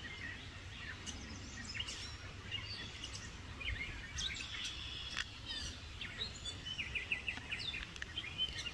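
Small birds chirping and trilling in short, scattered calls, over a faint, steady low rumble.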